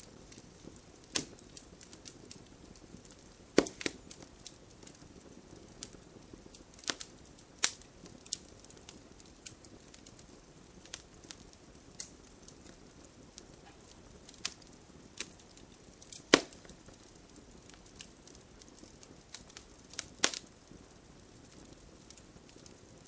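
Wood fire crackling, with many small ticks and a few louder sharp pops spread through, over a faint steady hiss.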